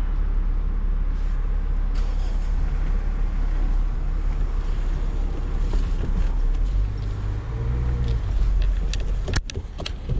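Vehicle engine and road rumble heard from inside the cab, a steady low drone, with a few sharp clicks and a short drop in level near the end.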